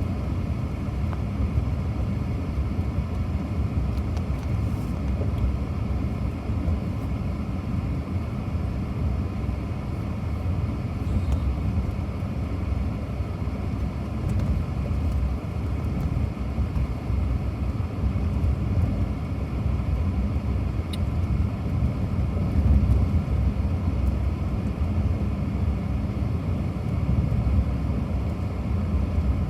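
Steady low rumble of a car driving, with no clear changes in speed.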